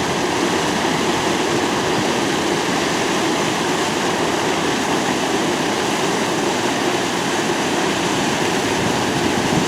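Floodwater rushing steadily through the breach in a washed-out temporary river dam.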